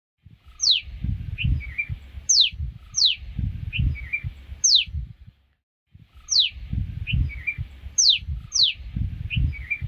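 Wild birds calling, a repeated sharp whistle that slides quickly downward, about seven times, with a few softer chirps between. Heavy low rumbling noise sits underneath, and the sound cuts out briefly twice.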